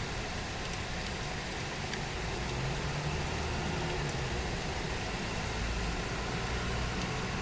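Steady heavy rain falling, an even hiss, with a low hum that swells up about two and a half seconds in.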